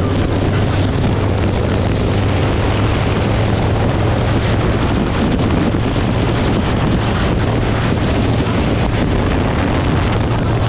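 Harley-Davidson V-twin motorcycle running at a steady cruising speed, its engine drone mixed with heavy wind noise on the microphone.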